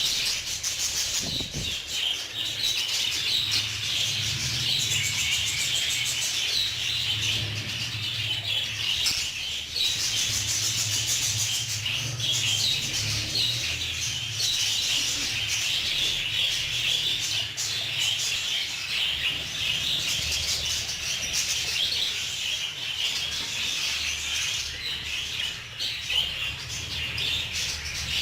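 A flock of budgerigars chattering and warbling together in a continuous, dense twittering.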